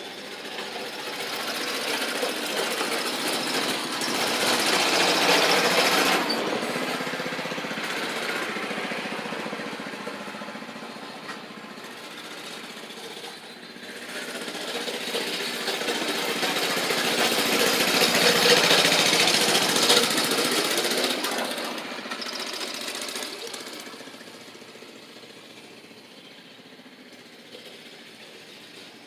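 Mini bike's small engine running. It swells louder and fades twice, about five seconds in and again around eighteen seconds in, and is quieter near the end.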